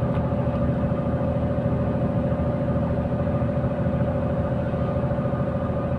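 KamAZ 4308 truck's diesel engine running steadily under way, heard from inside the cab, with a steady whine over the low hum.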